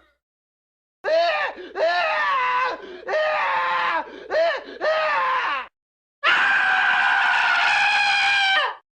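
Wilhelm scream stock sound effect: a man's short pained screams, about five in quick succession, then one long held scream that drops in pitch at its end.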